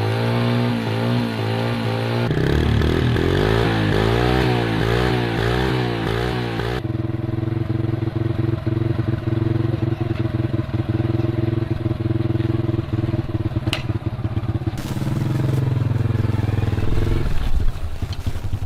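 Small motorcycle engine running, its pitch rising and falling quickly over and over during the first few seconds, then running at a steady speed.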